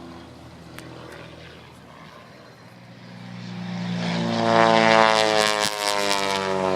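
Pitts Special aerobatic biplane's piston engine and propeller passing overhead. The engine fades away, then swells to a loud pass about five seconds in, its pitch dropping slightly as it goes by.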